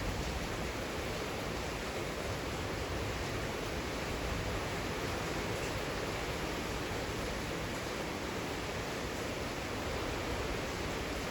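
Heavy rain falling in a steady, even wash of noise.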